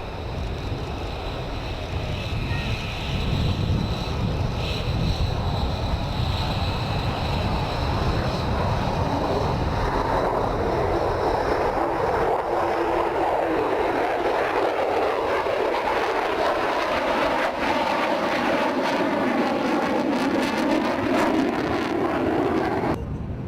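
F-35B jet engine noise, loud and continuous: a deep rumble at first, then from about ten seconds in a higher hissing jet noise with a slow sweeping, phasing quality as the jet moves. It cuts off abruptly near the end.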